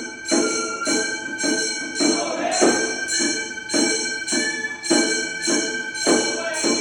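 Gion-bayashi festival music: small bronze hand gongs (kane) struck in a steady rhythm, about two strikes a second, each ringing on into the next.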